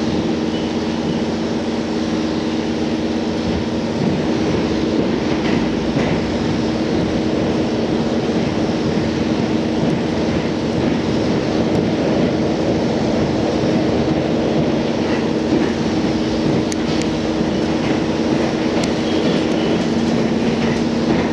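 Running noise inside a JR Hokkaido H100 diesel-electric railcar: a steady rumble with two steady tones from the drive, and a few light clicks of the wheels over the rail joints.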